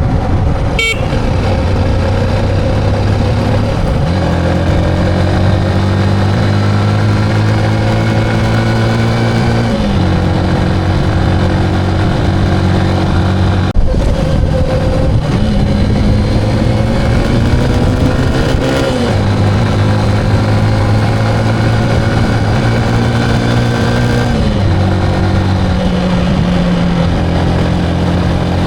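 Motorcycle engine under way, its note climbing steadily as it pulls and then dropping sharply with each gear change, about four times.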